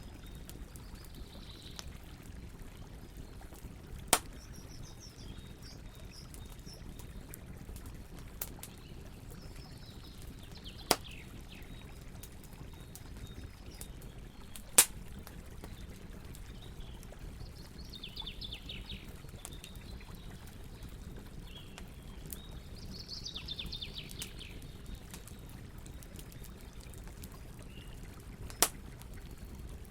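Campfire burning with a steady low hiss and a few sharp wood pops, five in all, the loudest about halfway through. Short high chirps that fall in pitch come and go over it several times, likely from birds.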